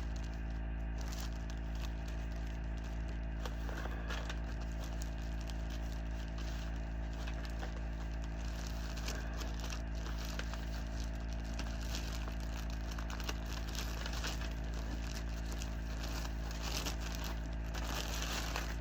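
Plastic-sleeved cross-stitch chart packets being handled, with soft crinkling and crackling on and off, thicker near the end. Over a steady low electrical hum.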